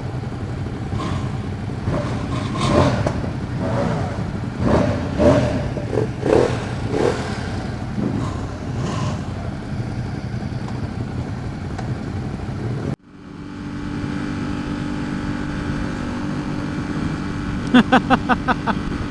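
Muffled voices over a steady hiss. Then, after a sudden break, a Ducati XDiavel's 1262 cc L-twin runs steadily at cruising speed, with a short run of rapid, evenly spaced pulses near the end.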